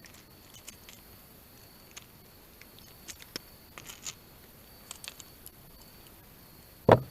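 Scattered light clicks and ticks of fishing tackle as a reel is cranked on a retrieve, over a faint steady high tone. Near the end there is one sudden loud thump.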